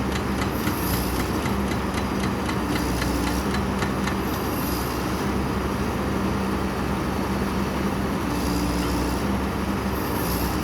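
Engine of a Sumitomo piling rig running steadily at a constant pitch, with a low hum and faint light clicking.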